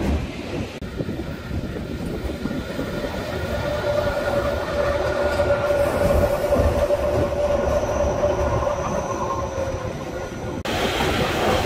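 Matterhorn Gotthard Bahn narrow-gauge mountain train running uphill, heard from inside the passenger carriage: a steady rumble of wheels on rail with a thin whine in the middle part. Near the end the sound changes abruptly and gets louder and brighter.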